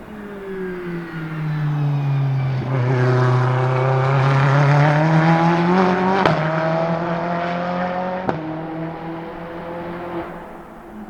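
Ferrari 488 GTE race car's twin-turbo V8 running at speed: the engine note falls as it slows, then rises as it accelerates hard and gets louder. Two sharp bangs on upshifts come about halfway through and two seconds later, each followed by a drop in pitch, and then the sound fades as the car goes away.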